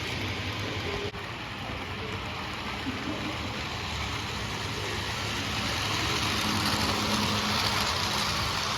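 HO-scale model train running on the layout: a steady hiss of motor and wheels on track over a low hum, growing a little louder in the second half.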